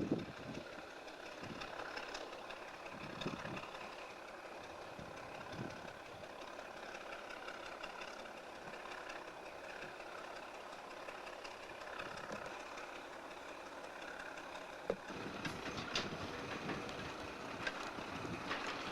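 Diesel engine of USAF locomotive Engine 4040 idling steadily, with a few sharp knocks about three-quarters of the way through.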